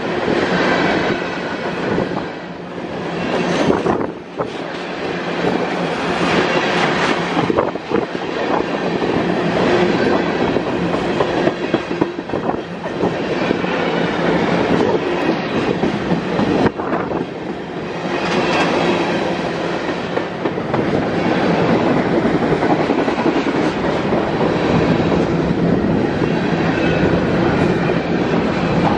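Covered grain hopper cars of a BNSF unit train rolling past close by: a steady rush of steel wheels on rail, with wheels clacking over the rails now and then.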